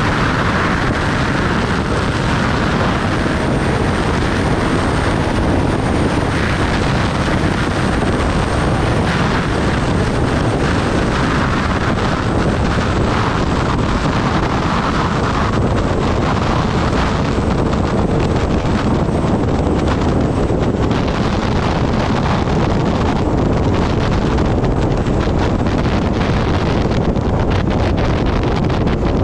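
Steady wind rush on the microphone while riding a Kawasaki Ninja ZX-10R, its inline-four engine running underneath.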